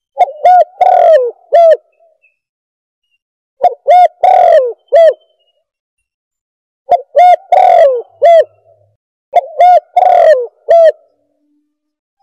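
Recorded spotted dove (tekukur) call played as a bird caller: four cooing phrases, about three seconds apart. Each is a quick run of short coos around one longer falling coo.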